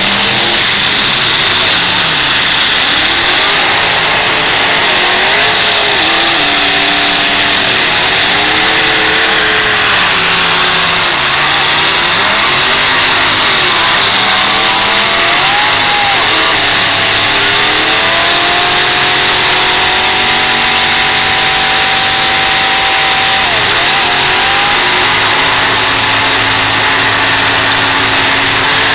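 Demolition derby cars doing smoky burnouts: engines revving hard, rising and falling in pitch, over a loud steady hiss of spinning tyres. About two-thirds through, one engine is held at a high steady rev for several seconds, then drops and settles into a lower steady drone near the end.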